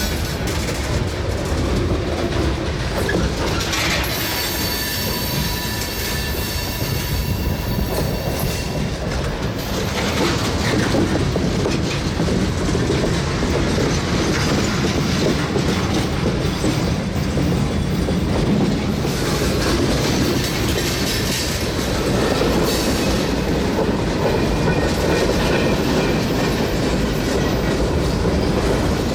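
Freight train cars rolling past slowly, wheels clicking over the rail joints, with a thin high wheel squeal in the first several seconds.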